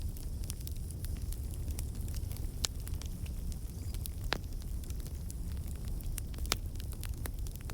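Wood fire burning in a fireplace: a steady low rumble of the flames with irregular crackles and a few sharper pops from the burning logs.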